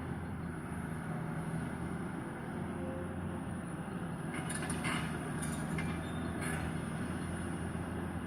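Excavator's diesel engine running steadily during demolition work, with a few short sharp knocks or scrapes a little past the middle.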